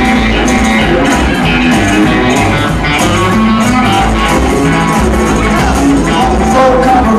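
Live rockabilly band playing an instrumental break: guitar over a bass line and a steady drum beat.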